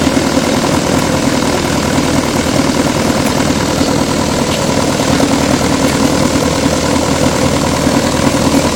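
Small model gasoline engine running steadily at an even idle, with no change in speed.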